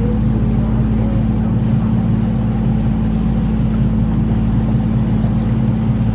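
Canal tour boat's engine running steadily at cruising speed, a constant low hum with a steady drone.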